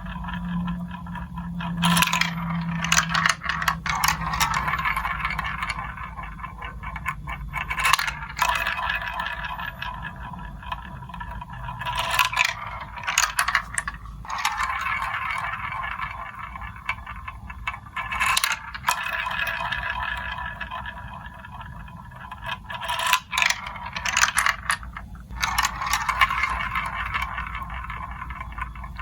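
Marbles rolling steadily along a building-block marble run track with a continuous ringing rumble, broken every few seconds by sharp clacks as they drop or knock against the pieces.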